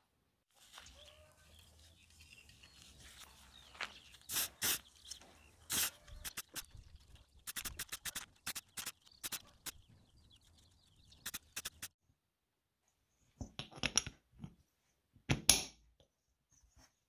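Metal parts being handled: scattered short clicks and knocks, with a faint hiss in the first few seconds. The loudest clicks come near the end as a steel hub is set onto an aluminium chainsaw flywheel.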